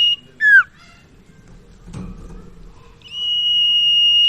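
Common iora (sirtu/cipoh) song: a long, steady, high whistle ends, followed at once by a short, sharply falling note, and about three seconds in the next long steady whistle begins.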